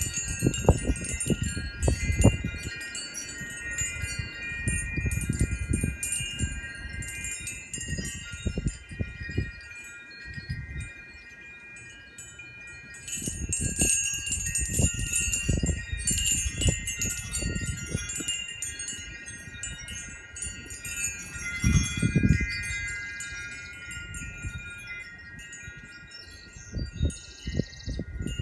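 Wind chimes ringing in the wind, several steady tones overlapping and sustained, with wind gusts buffeting the microphone in surges.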